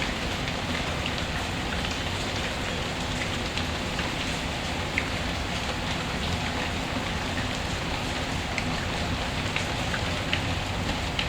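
Steady rain ambience: a dense, even hiss of falling rain with scattered small sharp ticks.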